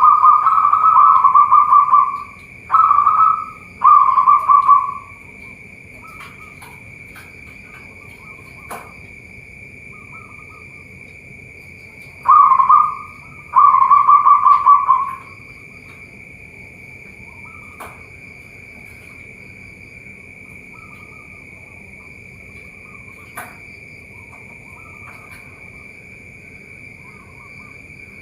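Zebra doves (perkutut) cooing: five loud, rolling, fluttering coo phrases in the first half, then only fainter coos from other doves. A steady high whine runs underneath, with a few sharp clicks.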